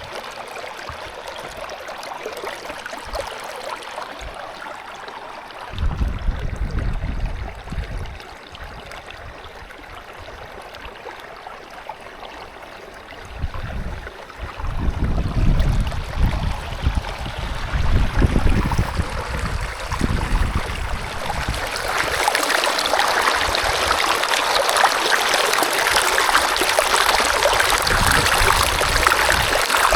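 Steady rushing of running water, growing louder about 22 seconds in, with low wind rumble on the microphone about six seconds in and again from about 13 to 20 seconds in.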